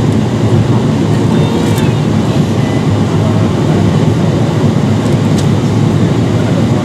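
Steady low rumble of cabin noise inside a Boeing 777-300ER on final approach with flaps extended: engine and airflow noise heard from inside the cabin.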